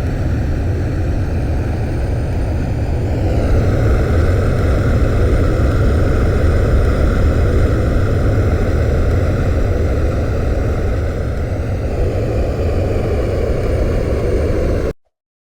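Airplane engine noise: a loud, steady rumble with a faint high whine that rises in pitch about three seconds in. It cuts off suddenly near the end.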